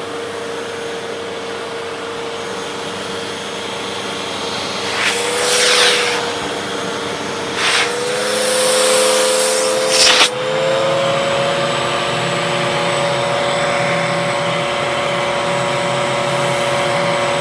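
Hoover vacuum cleaner running with strong suction, its motor pitch dipping and rising a few times as the airflow through the hose changes, with loud rushes of air about five seconds in and again around eight to ten seconds in.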